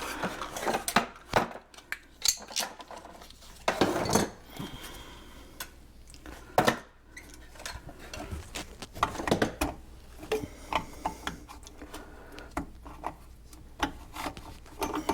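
Irregular clicks, knocks and clatter of plastic drain-pipe fittings and hand tools being handled and fitted together, with a few louder knocks.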